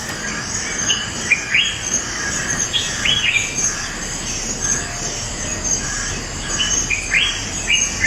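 Rainforest birds calling in clusters of short, upward-sweeping notes, about three bursts in all, over a steady, evenly pulsing high-pitched insect chorus.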